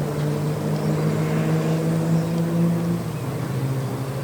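Lamborghini Gallardo V10 engine running at a steady pitch on the circuit, the note dropping slightly about three seconds in.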